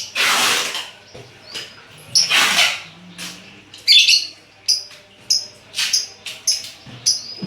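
Lovebirds calling: a string of short, shrill chirps with a couple of longer, harsher screeches among them, coming in irregular bursts.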